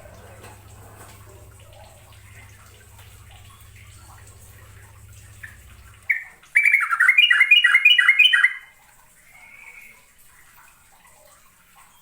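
Yellow-vented bulbul (trucukan) singing: about six seconds in, a loud burst of about six quick, bubbly repeated notes lasting about two seconds, with faint scattered chirps before and after.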